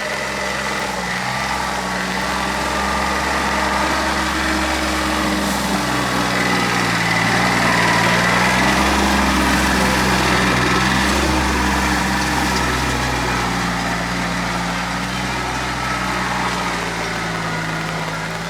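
Tractor engine running steadily, growing louder to a peak about eight seconds in and then easing off.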